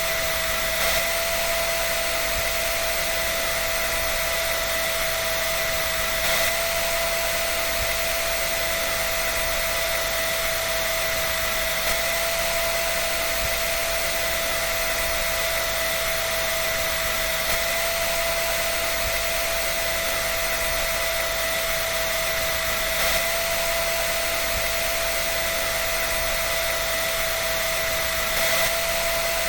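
Electric hair dryer blowing steadily: a constant rush of air with a high motor whine held on one pitch. A faint brief swell recurs about every five and a half seconds.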